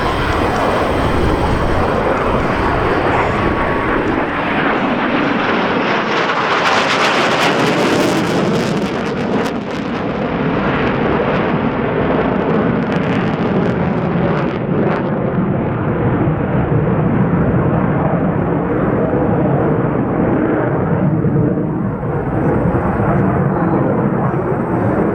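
EA-18G Growler's twin turbofan jet engines roaring continuously, with a harsh hiss that peaks about seven to nine seconds in and then dulls as the high end fades, leaving a lower, steady rumble.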